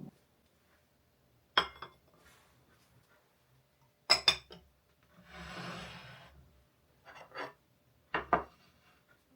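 Dishes and cutlery being handled, clinking sharply a few times, with a brief soft rushing or rubbing sound in the middle.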